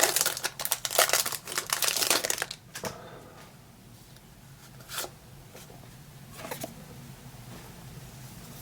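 Foil Pokémon booster pack wrapper crinkling and tearing for about two and a half seconds, then quieter card handling with a couple of soft clicks.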